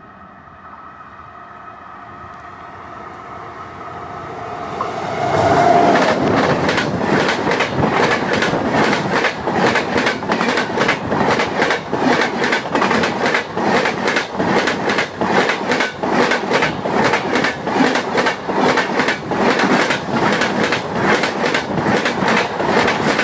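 Indian Railways passenger train growing louder as it approaches, then passing close by from about five seconds in, with a loud, rapid, even clatter of its coaches' wheels over the rail joints.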